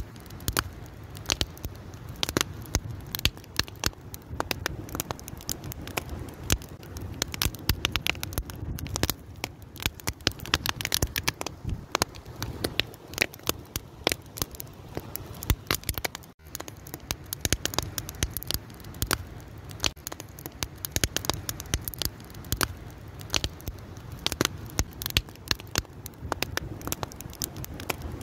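Wood fire crackling steadily with dense, irregular pops and snaps over a low rumble of flames, broken by a split-second gap about halfway through.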